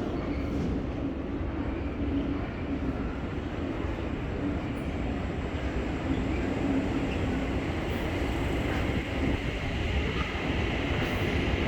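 Bucharest Metro CAF trainset running through the station without stopping: a steady rumble of wheels on rail and running gear with a low hum. A higher whine grows near the end.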